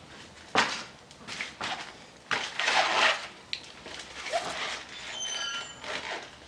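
Metal tools and brake caliper parts clinking and scraping on a workbench, with a sharp knock about half a second in and a brief metallic ring near the end.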